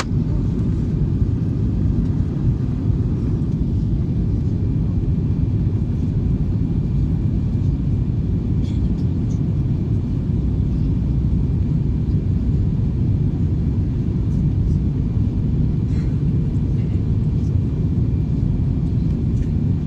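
Steady low rumble of an Airbus A321 airliner's engines and airflow, heard as cabin noise, with a faint steady high tone above it.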